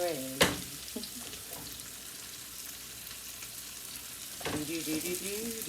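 Salmon fillets frying in butter and garlic in a pan, a steady sizzle, with a sharp knock about half a second in.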